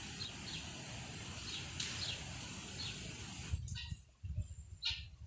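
Steady outdoor background hiss with a few faint, short, high bird chirps. The hiss drops away about three and a half seconds in, leaving a few soft knocks and low thumps.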